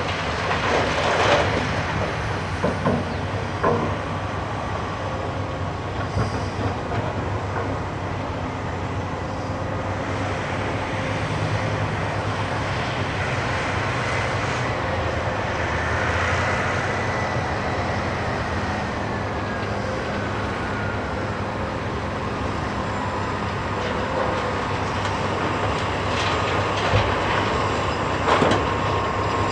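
Cat 390F excavator working at a Cat 773G haul truck: its large diesel engine runs steadily under load, with a thin whine that slides down in pitch midway. Bursts of heavy clattering in the first few seconds and again near the end, as loads drop into the truck's steel bed.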